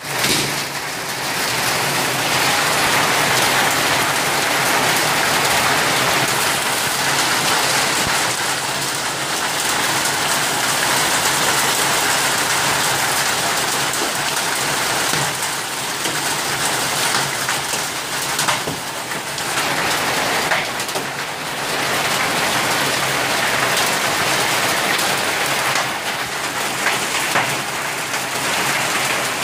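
Hail falling hard: a dense, steady rush of countless small impacts, easing slightly about two-thirds of the way through.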